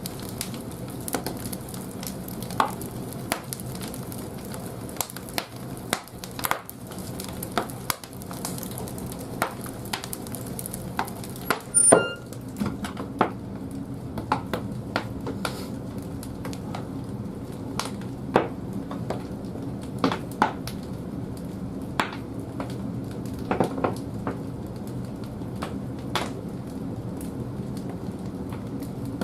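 Firewood burning in the firebox of a wood-fired bathhouse boiler, crackling and popping irregularly over a steady low hum. One sharper, louder crack comes about twelve seconds in.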